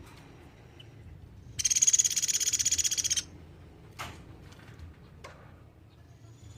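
Platuk beras (Sunda pygmy woodpecker) calling: one high, fast, evenly pulsed trill lasting about a second and a half, followed by two short sharp notes. A low steady hum runs underneath.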